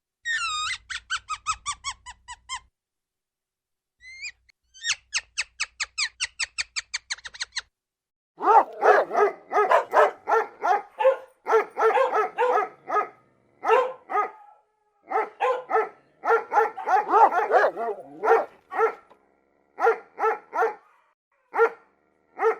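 Animal calls: two runs of rapid, high squeaky chirps, about eight a second, then from about eight seconds in a long series of short, loud bark-like yelps in bursts.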